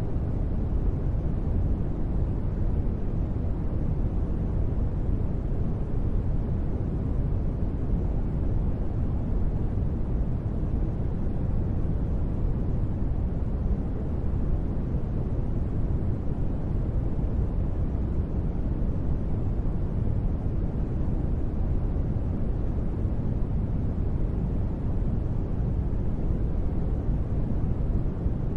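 Steady ambient noise bed for sleep and relaxation: a deep, dull hiss-rumble, heavy in the low end with little treble, which never changes.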